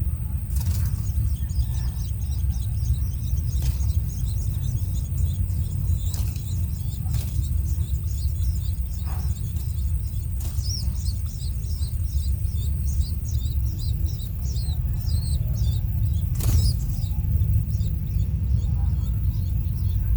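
Birds chirping in many quick, short high notes over a steady low rumble. A thin high whine runs beneath them and stops about two-thirds of the way through.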